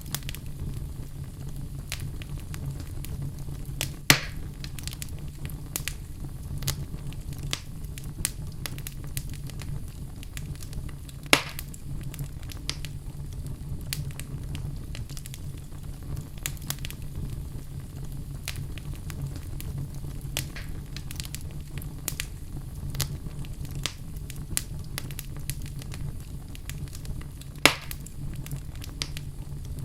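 Wood fire burning in a fireplace: a steady low rumble of flames with constant crackling and three louder pops, about 4 seconds in, near the middle and near the end.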